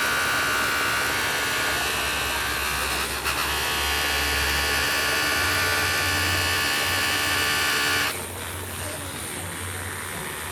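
A power tool's electric motor whining steadily at a high pitch. It dips briefly about three seconds in and cuts off about eight seconds in.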